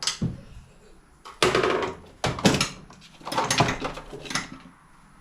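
Hand tools and metal parts clattering and scraping in several short bursts, as a screwdriver is worked at the throttle cable fitting of a small engine.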